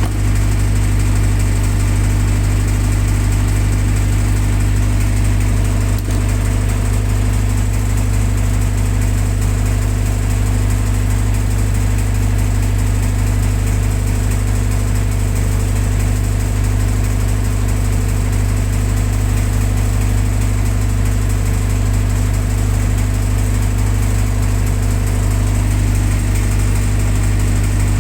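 Generator set's engine running steadily at constant speed, a loud, even hum.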